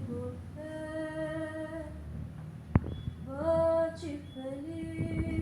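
A female voice singing slow, long held notes without accompaniment, with a single sharp click about three seconds in.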